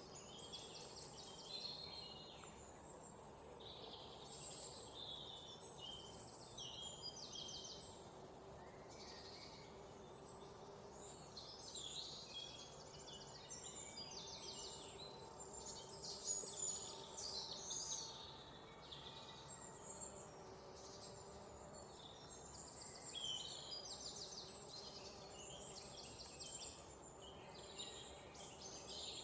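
A chorus of songbirds chirping and trilling, with many overlapping short calls and rapid trills that continue without a break and swell briefly in the middle.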